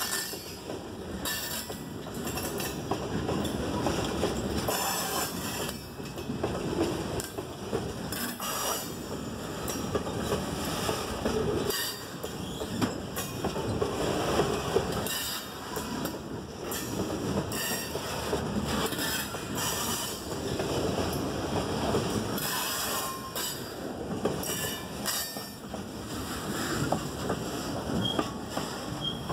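Freight train of boxcars rolling past at close range, steel wheels rumbling and clacking steadily over the rail.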